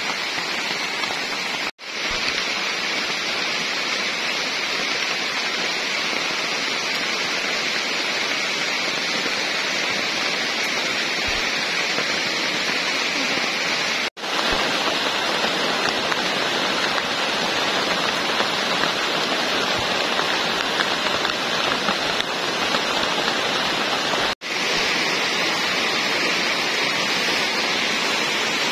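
Heavy tropical rain falling steadily on leaves, wet ground and a stream, a dense even hiss that cuts out for an instant three times.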